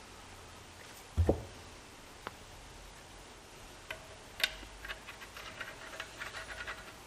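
Workshop hand-tool and hardware handling: a dull knock about a second in, a few sharp clicks, then a quick irregular run of light ticks near the end.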